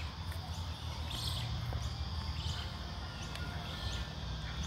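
Birds calling: a short high chirp repeated about once a second, with a few brief thin whistles, over a steady low rumble.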